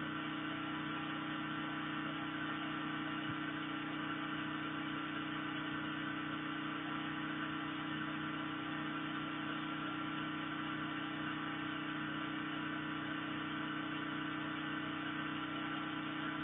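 A steady, unchanging machine hum with a few fixed tones, like a motor running at constant speed.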